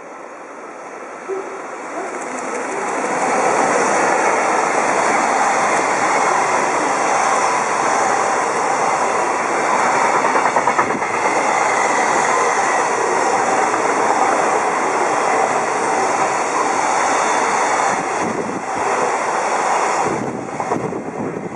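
Freight train hauled by a JR Freight EF65 DC electric locomotive passing at speed: a loud, steady rush of wheels on the rails from the long line of container wagons, building over the first few seconds and dropping off near the end as the last wagon goes by.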